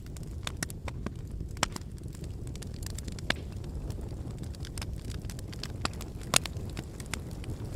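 Wood fire burning in a fireplace: a steady low rumble of the flames with irregular sharp crackles and pops, the loudest pop a little past six seconds in.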